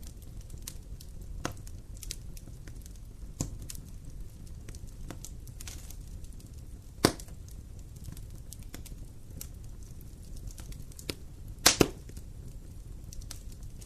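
Wood campfire burning and crackling: scattered sharp pops and snaps over a low steady rumble, with one loud pop about seven seconds in and a quick burst of loud pops near the end.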